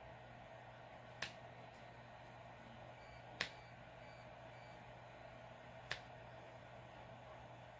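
Three short, sharp clicks, a second or two apart, over a faint steady hum of room tone.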